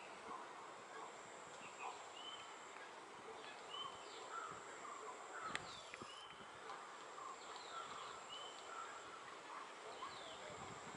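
Faint outdoor ambience with small birds chirping, short calls repeating every second or so, over a steady background hiss.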